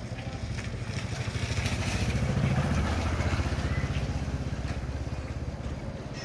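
A motor vehicle engine passing by, with a fast low throbbing, like a motorcycle. It grows louder to a peak about halfway through, then fades away.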